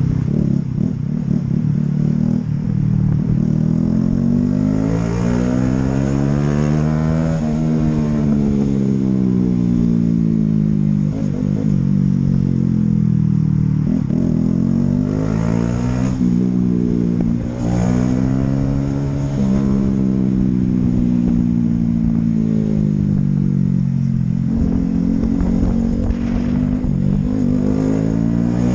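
Honda CB125R's single-cylinder 125 cc four-stroke engine under way, its pitch rising as it accelerates and dropping back again several times over, with the longest climb about a quarter of the way in.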